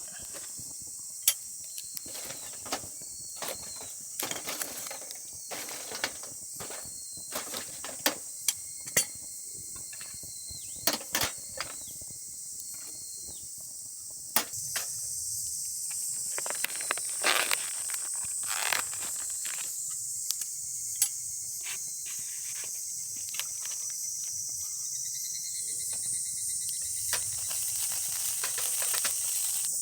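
A chorus of summer insects chirring steadily in a high band. It grows louder about halfway through and again near the end, with scattered sharp clicks and knocks over it.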